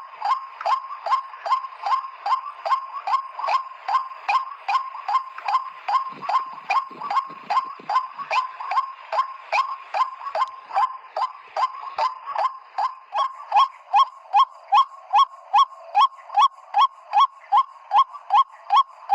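White-breasted waterhen 'kwak' call: a long, even run of short hoarse notes, about two and a half a second. The notes grow louder about two-thirds of the way through.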